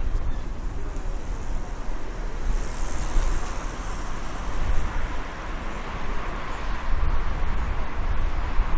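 Outdoor wind buffeting the microphone with an uneven low rumble, over a steady rushing hiss; the hiss brightens for a second or so about three seconds in.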